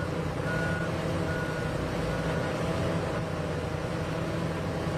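Heavy mining machinery, a Komatsu haul truck and the excavator loading it, with diesel engines running steadily. A backup alarm beeps about once a second and stops after about two and a half seconds.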